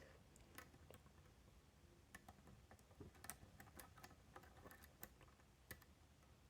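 Faint, irregular small clicks of a disc detainer pick being turned in a Miwa DS wafer lock, setting the rear wafer.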